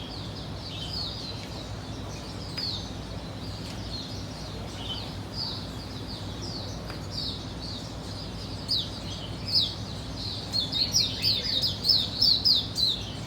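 A small bird chirping in short, high, falling notes. The notes are sparse at first, then come fast and louder from about nine seconds in, over a faint steady low hum.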